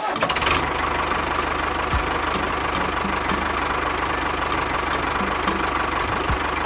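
A small motor running steadily, with a faint regular ticking about three times a second.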